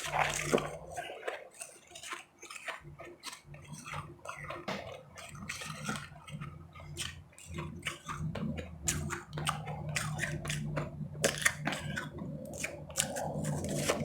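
Close-miked chewing and crunching of powdery, refrozen ice chips: a run of sharp crunches that comes thicker in the second half.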